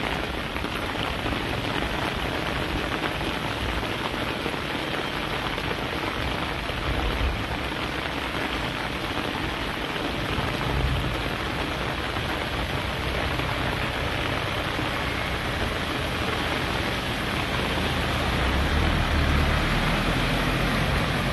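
Steady heavy tropical-storm rain pouring down, with low rumbles about ten seconds in and again near the end.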